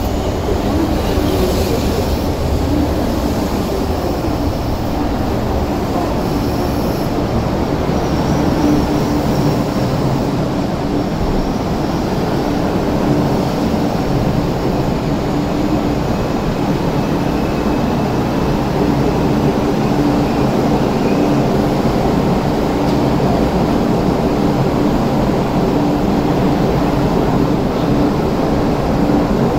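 East Rail Line electric multiple-unit train running slowly into the platform and coming to a stop, a steady rumble of motors and wheels with a steady hum.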